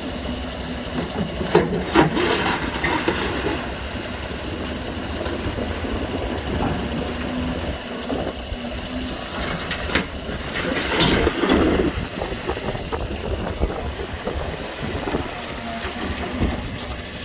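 Diesel heavy equipment running steadily, with a few clanks and scrapes of metal on pavement and debris, the loudest about two seconds in and again about ten to eleven seconds in.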